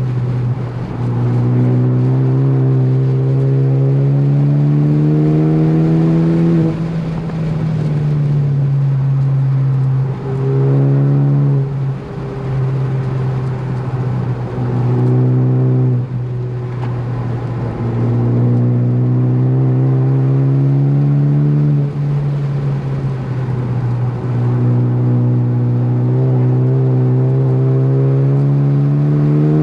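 Ford Focus ST engine at full throttle on track, its pitch climbing steadily through long pulls. Several times it breaks off and drops as the driver lifts, brakes and shifts, then picks up again.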